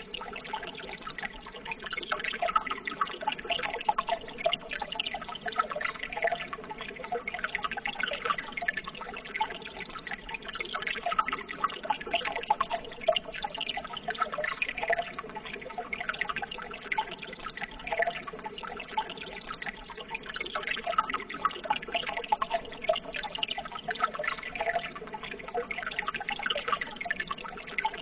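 Running water, trickling and babbling steadily with many small irregular splashes and drips.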